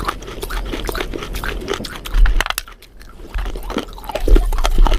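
Close-miked biting and chewing of crunchy food: a dense run of irregular crunches, easing off briefly about halfway through.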